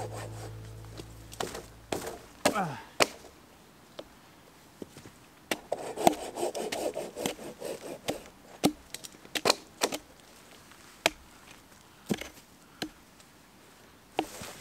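Dead firewood being worked: scattered sharp knocks and snaps of wood, with a stretch of rubbing about six seconds in. Background music fades out at the start.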